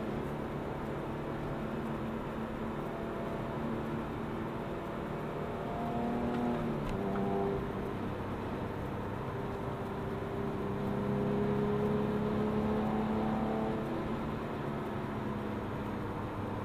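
Porsche 911 Carrera S (997) 3.8-litre flat-six engine heard from inside the cabin while lapping a race track. Its pitch climbs under throttle and drops back twice, about six to seven seconds in and again about fourteen seconds in, as the driver lifts or changes gear.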